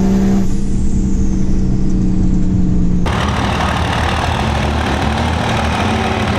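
Vehicle engine pulling at high revs, then easing off about half a second in and holding a steady drone. About three seconds in it switches abruptly to a rough engine rumble at low speed.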